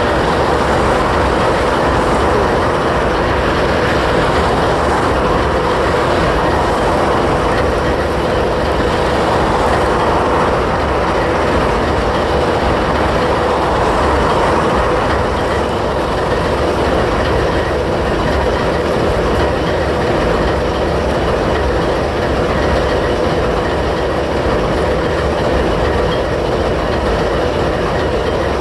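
Freight train noise: a steady, loud rumble with wheel-on-rail sound.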